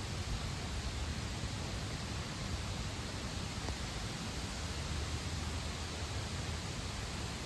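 Steady rain falling: an even hiss with a low rumble underneath and a few faint ticks.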